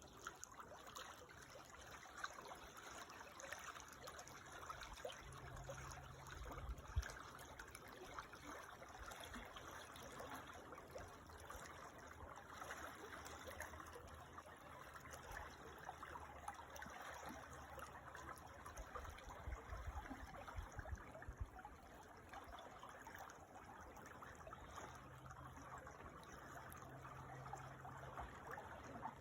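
Creek water trickling and burbling steadily and faintly over its bed.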